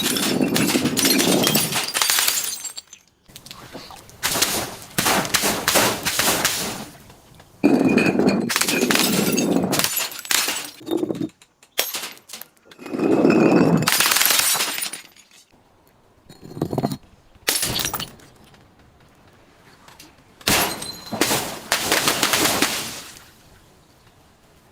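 Glass bottles cracking and crunching as they are crushed. The sound comes in about six bursts, each one to three seconds long, with short pauses between them.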